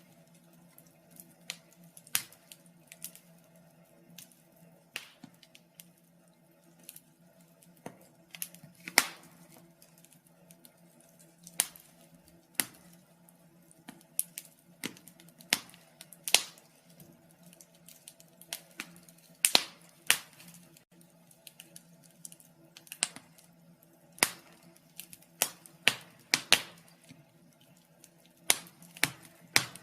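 Wood fire burning in a fireplace, crackling with irregular sharp pops, some much louder than others, over a faint steady hum.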